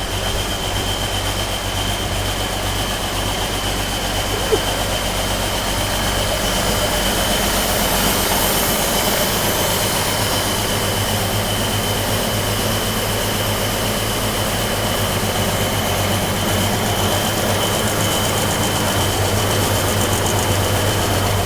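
Ford 946 tractor's diesel engine running steadily just after a very cold start, with a steady high whine over the low engine hum.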